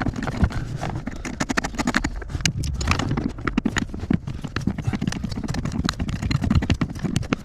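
Irregular clicking and knocking: many small hits in quick succession from hand work with tools on the car's interior.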